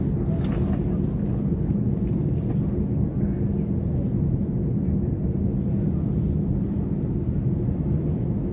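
Steady low hum and drone inside a vehicle, even in level, with a held low tone.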